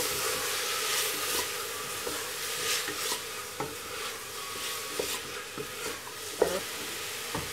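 Chopped onion and tomato sizzling in hot oil in a pressure cooker while a wooden spatula stirs them, scraping and knocking against the pot every second or so.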